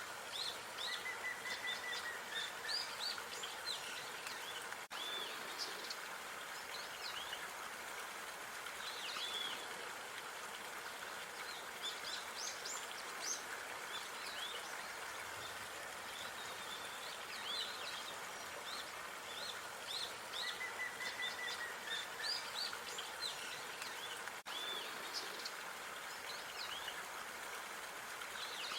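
Small songbirds chirping and twittering in short bursts over a steady outdoor background hiss.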